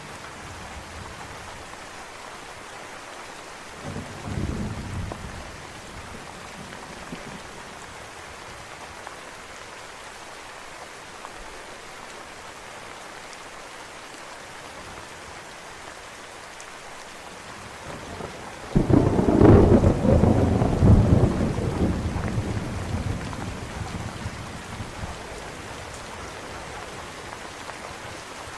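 Steady rain with thunder: a short low rumble about four seconds in, then a louder, longer thunderclap about two-thirds of the way through that rolls and fades over several seconds.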